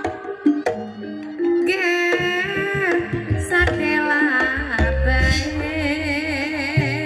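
Live Javanese gamelan music accompanying an ebeg trance dance: a singing voice with wide vibrato over held instrument notes and sharp drum strokes.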